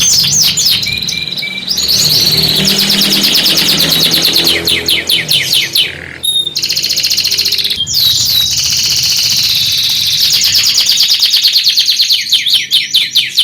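Scotch Fancy canary singing loudly: long, rapid trills and rolls with short whistled notes between them. There are brief breaks about six and eight seconds in.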